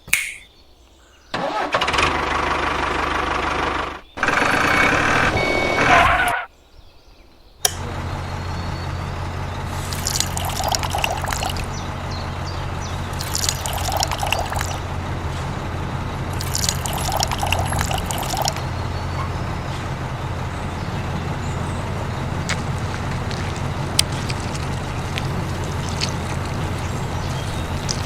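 A motor runs steadily with a low hum, starting about eight seconds in. It follows two louder, separate bursts of sound.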